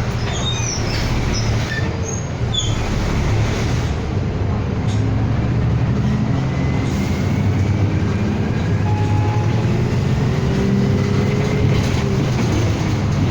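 City bus heard from inside while driving: a steady engine drone and road rumble, picking up a little after a few seconds, with a faint whine that rises slowly in pitch as it gathers speed. A few brief high squeaks sound in the first few seconds.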